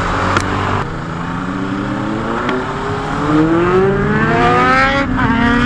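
Kawasaki Z900 inline-four with an Austin Racing aftermarket exhaust accelerating hard. The revs climb steadily for about four seconds, drop suddenly at an upshift near the end, then start climbing again.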